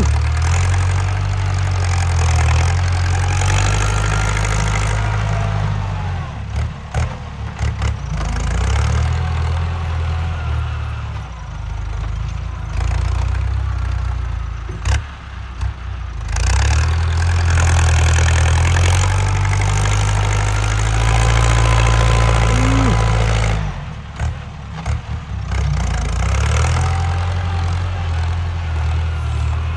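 Ford 6640 tractor's diesel engine working under heavy load, with a loud exhaust note that swells and eases in three long stretches. Between them come short dips with a few sharp knocks, and a thin high whine rides on top when it pulls hardest.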